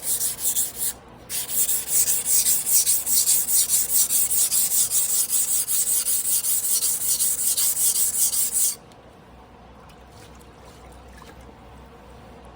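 Carbon-steel sashimi knife blade being stroked back and forth by hand on a whetstone, a rhythmic scraping at about two or three strokes a second. There is a short break about a second in, and the strokes stop about nine seconds in.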